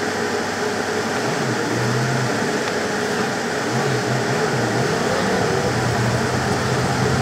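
Car driving, heard from inside: steady engine hum and road noise, with a low hum that wavers in pitch. The recording plays at triple speed.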